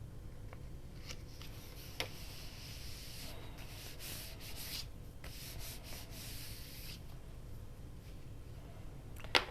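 Rubbing on paper while a page is glued into a journal, in stretches through the middle of the clip, with a sharp click about two seconds in and another near the end.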